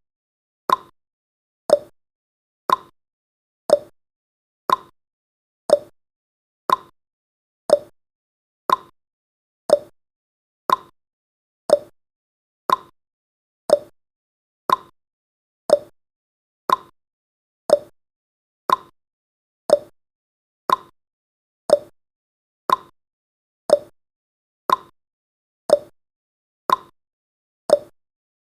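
Countdown timer's tick-tock sound effect: one short click every second, alternating between a lower tick and a higher tock.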